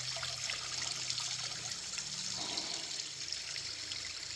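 Water of a small creek trickling and splashing over rocks into a pool, a steady rushing hiss.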